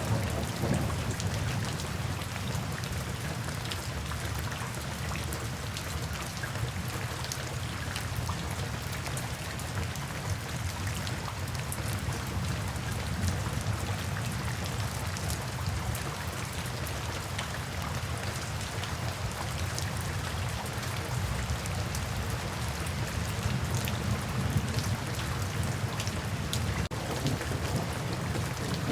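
Steady, continuous rain falling, with scattered drop ticks over an even hiss.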